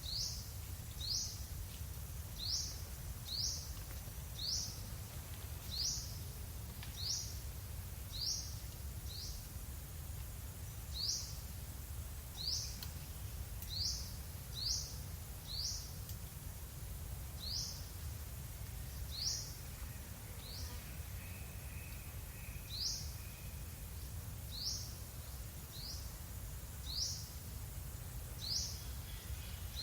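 A bird repeating one short, high, sweeping call note about once a second at an uneven pace, over a steady low rumble of background noise.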